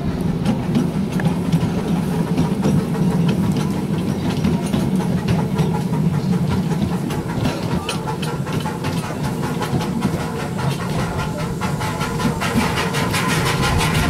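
Miniature railway train running along its track, heard from on board: a steady low rumble with rapid clicking from the wheels and track that grows denser from about a third of the way in.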